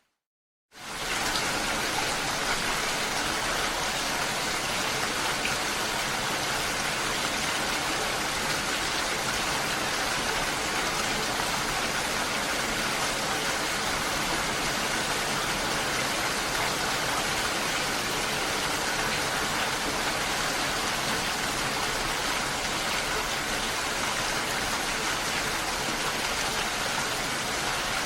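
Steady, unbroken hiss of water, fading in just under a second in after a moment of silence.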